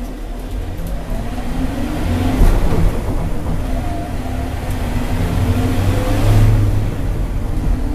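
A motor vehicle's engine running while driving, its pitch rising and falling with speed, over a low road rumble.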